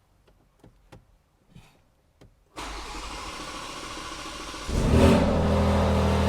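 A few faint clicks, then the BMW X3 M Competition's twin-turbo inline-six is cranked by its starter for about two seconds. It catches with a brief rev flare and settles into a steady idle: the car restarting now that the remote engine cut-off has been lifted.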